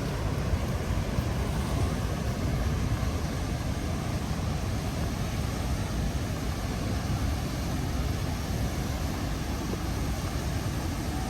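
Steady roar of the Rhine Falls: heavy water rushing and crashing, an even, unbroken noise strongest in the low end.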